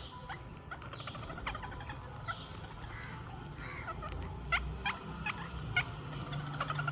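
Rose-ringed (Indian ring-necked) parakeets calling: a run of short, sharp calls, the loudest few coming close together a little past the middle.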